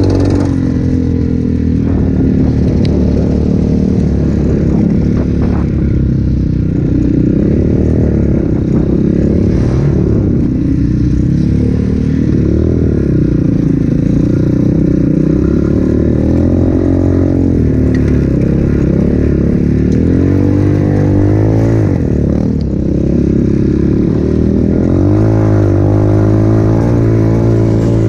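A 200cc Avantis pit bike's single-cylinder engine running while being ridden. The revs rise and fall over and over with the throttle, with some clatter from the bike over rough ground.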